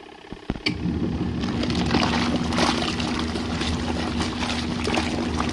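RV washing machine starting its wash motion with a click or two about half a second in, then running with a steady motor hum and water sloshing in the tub.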